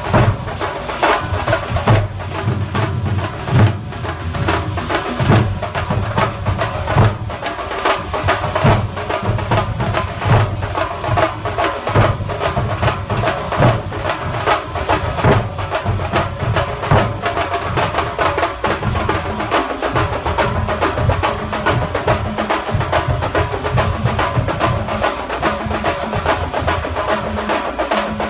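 Thambolam melam, a Kerala festival percussion ensemble, playing fast, dense drumming. A continuous high hiss runs over a heavy low beat.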